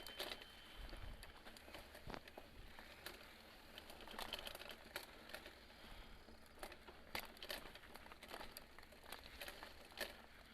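Mountain bike rolling along a dirt forest trail: faint, irregular crackles and clicks throughout.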